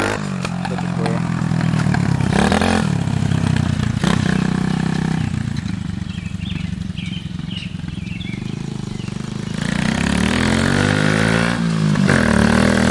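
70cc Roketa dirt bike engine with a cheap homemade muffler, running loud and revving up and down as it is ridden. It eases off for a few seconds midway, then revs up hard again near the end.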